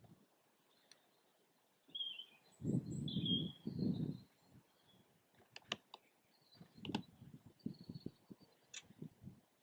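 Faint, short bird chirps outdoors, broken by two low rumbling thuds on the microphone a few seconds in and a scatter of sharp clicks later on.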